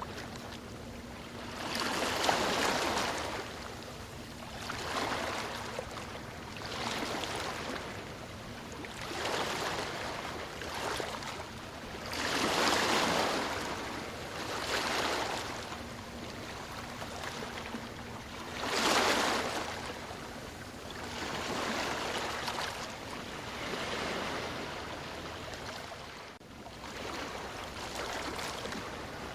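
Ocean surf: waves breaking and washing in, one swell every two to three seconds, the biggest about two, thirteen and nineteen seconds in.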